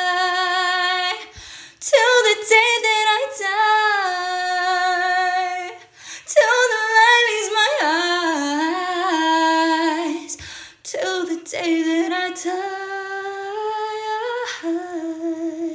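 A female voice singing unaccompanied, a slow melody in long held notes, with short pauses for breath between phrases.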